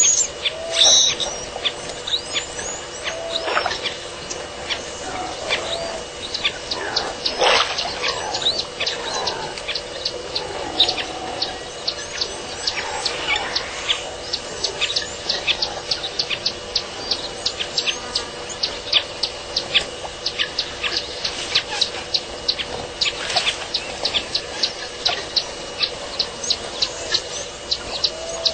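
Small birds calling: a fast run of short, high chirps, about two to three a second from midway on, with a few longer sweeping calls earlier.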